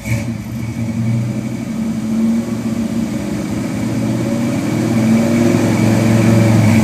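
1973 Ford Bronco's carbureted 302 (5.0 L) V8 revved up from idle just after the start and held at raised revs, growing slowly louder toward the end.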